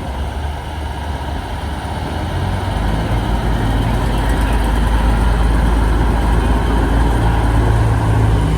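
Diesel engine of a big-rig semi truck running at a low, steady pace, growing gradually louder as the truck approaches.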